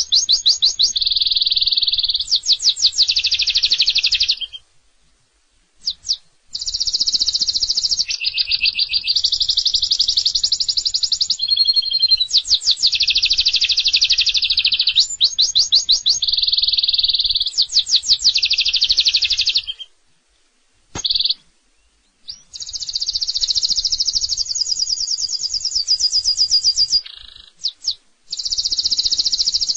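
Domestic canary singing long phrases of fast rolling trills, the song broken by a few short pauses.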